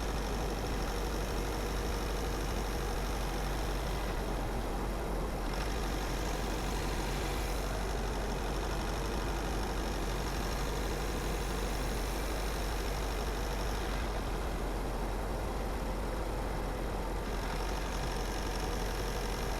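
A car driving at a steady pace: constant engine and road noise with a strong low drone, unchanging throughout.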